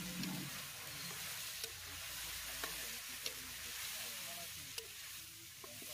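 Chicken, tomatoes and green chillies sizzling in ghee in a large iron karahi while a metal spatula stirs them, with a sharp click or scrape of the spatula against the pan every second or so.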